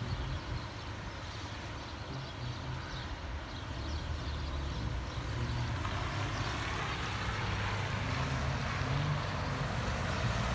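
Town street ambience: a steady low rumble of traffic with a noisy wash over it, growing gradually louder from about halfway through.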